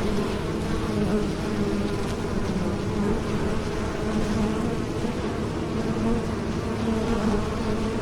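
Bees buzzing in flight: a steady, continuous drone whose low pitch wavers slightly.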